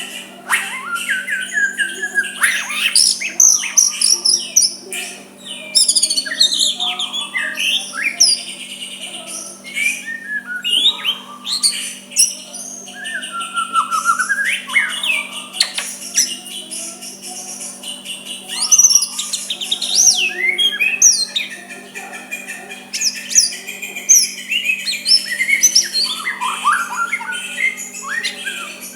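White-rumped shama (murai batu) singing a continuous, varied song of whistled phrases that glide up and down, mixed with quick harsh chattering runs, over a steady low hum.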